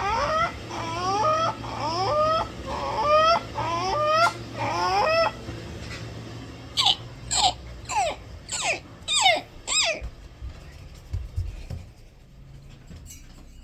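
A person doing vocal bird impressions, imitating a starling. First come five wavering, rising wails of about a second each, then six sharp high squeaks, each falling steeply in pitch.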